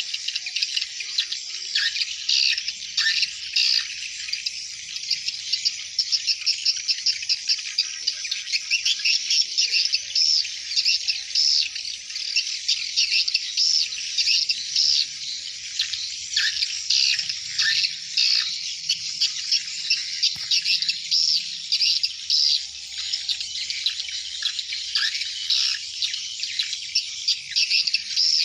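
Many swiftlets twittering together in a dense, continuous, high-pitched chatter, with quick runs of rapid chirps.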